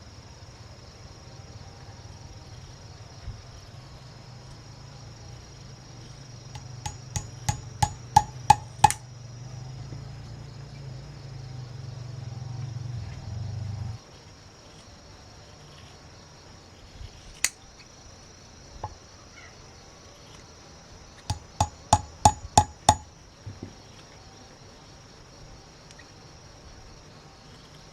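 Two runs of hammer blows on wood, about seven quick strikes each at roughly four a second and growing louder, typical of driving nails. Insects buzz steadily throughout, and a low hum stops abruptly about halfway.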